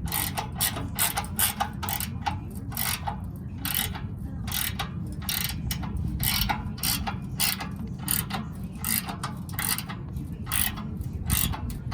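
Ratchet wrench clicking in quick runs of about three to four clicks a second, with a couple of short pauses, as nuts are run down onto bolts.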